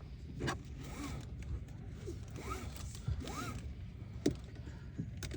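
Short rasping scrapes and several brief squeaks that rise and fall in pitch, with a few sharp clicks, the loudest about four seconds in.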